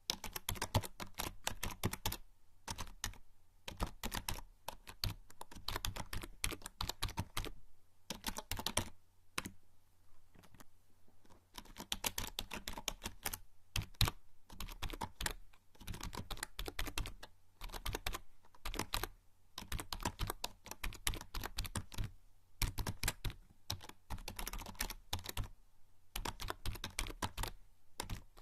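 Typing on a membrane computer keyboard: quick runs of soft key clicks in bursts, with brief pauses between them.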